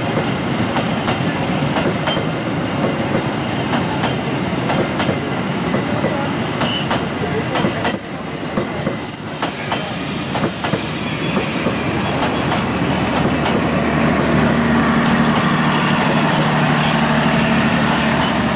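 Passenger coaches of a locomotive-hauled train rolling past on the track: a steady rumble with repeated clicks and clatter of the wheels over the rail joints, and a brief high wheel squeal around the middle. A steady low hum grows louder over the last few seconds.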